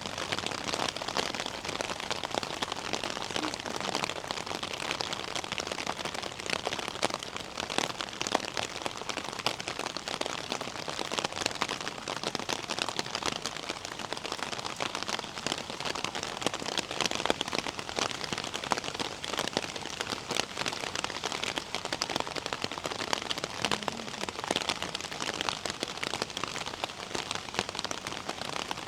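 Steady rain falling, a constant hiss with many sharp drops pattering close by.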